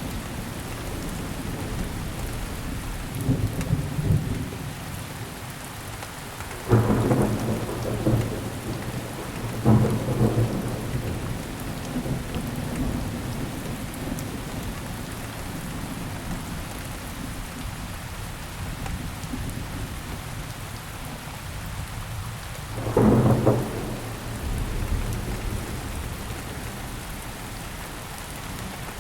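Steady rain falling, with rolls of thunder: a sudden loud crack-and-rumble about 7 seconds in, another about 10 seconds in, and a third about 23 seconds in, plus a softer rumble near 4 seconds.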